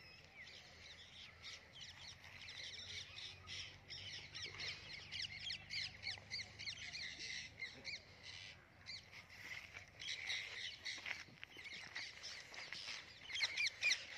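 Birds chirping and calling: many short, high, overlapping calls, busiest about ten seconds in and again near the end.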